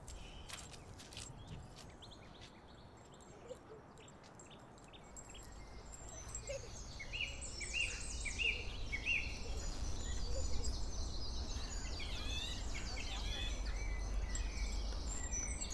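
Birds chirping over a low steady rumble that grows louder from about five seconds in, with a few clicks near the start.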